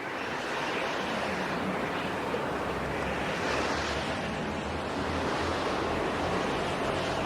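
Steady rushing noise of wind, fading in over the first second and then holding even.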